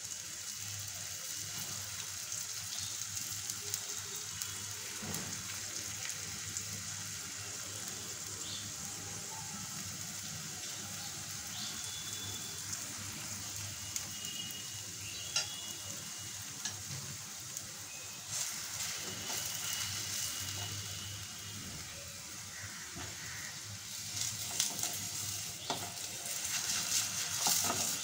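Oil sizzling steadily under a stuffed paneer paratha frying in a nonstick pan, with small scattered crackles. It gets louder and busier in the last few seconds as a spatula is worked under the paratha to turn it.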